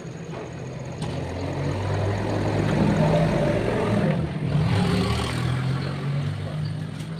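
A low engine drone that grows louder from about a second in, peaks midway, then fades.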